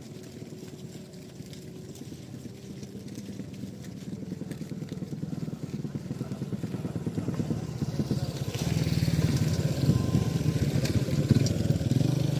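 A small engine running with a rapid, even putter, drawing closer and growing louder from about four seconds in until near the end.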